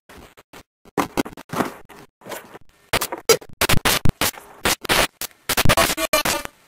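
Loud, irregular bursts of scratchy, scraping noise that start and stop in quick succession.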